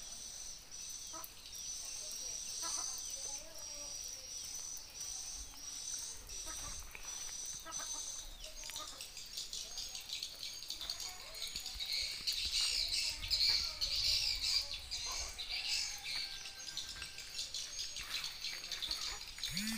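Birds chirping: a thin, high repeated call at first, then from about halfway a denser, busier chorus of high chirps.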